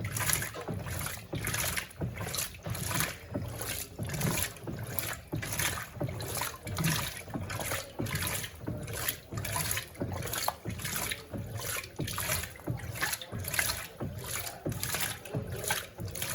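Electrolux Turbo Compacta LTC07 top-loading washing machine agitating a load of clothes in water: a rhythmic swishing and sloshing, about two strokes a second.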